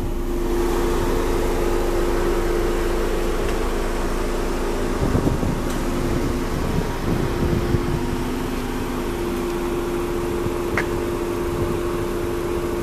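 Volkswagen Jetta 1.8T's turbocharged four-cylinder engine idling steadily, heard from outside the car as a constant hum.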